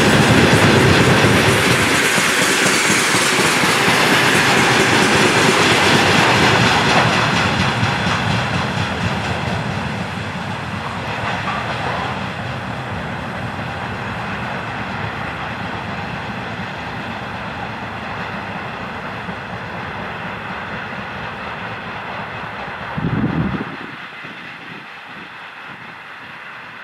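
Freight train of tank wagons rolling past, wheels clicking over the rail joints, the sound slowly fading. About 23 seconds in there is a brief louder rumble as the last wagon goes by, after which only a fainter, receding rolling remains.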